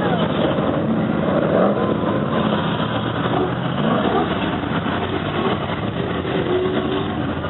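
Monster truck engine running and revving, its pitch rising and falling several times over a loud, steady engine noise.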